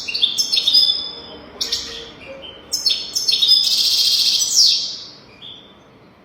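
European goldfinch singing: quick twittering phrases of high chirps and trills, with a louder, denser buzzy stretch about four seconds in. The song stops about five seconds in.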